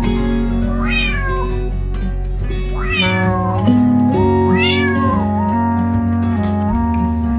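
A cat meowing three times, each meow rising and then falling in pitch, over background music of steady held notes.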